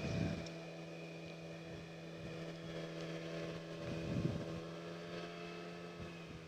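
Outboard motor driving an inflatable PVC boat on the water, running at a steady pitch and growing fainter over the last couple of seconds.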